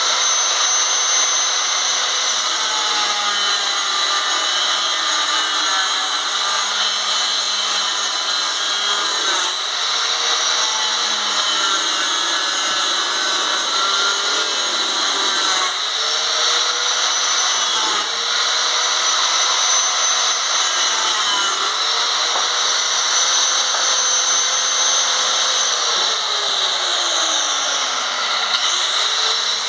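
Handheld power tool running steadily while it cuts through a plastic bucket. Its motor pitch sags and climbs back several times as the blade meets and leaves the plastic.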